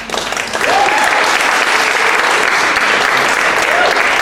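Audience applauding, swelling about half a second in and then holding steady.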